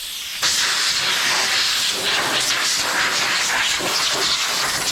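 A steady spraying hiss, starting suddenly about half a second in, from the wet, dirty RC truck being cleaned off.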